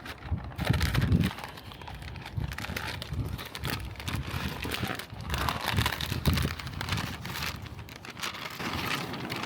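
Irregular rustling and crinkling handling noises with scattered clicks and soft knocks, a louder cluster about a second in.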